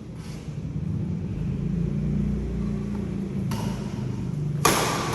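Low rumble, swelling around the middle like an engine going by, with two sharp badminton racket hits on the shuttlecock near the end, the second the loudest.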